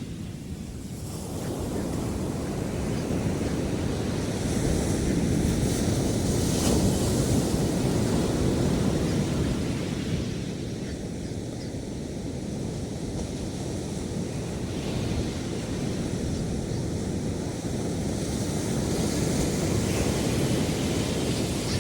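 Ocean surf breaking and washing up a sandy beach, a steady rushing noise that swells and ebbs with the waves, with some wind on the microphone.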